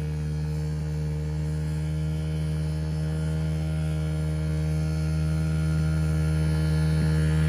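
Small dirt bike engine running at a steady speed, a constant low hum that grows slightly louder toward the end.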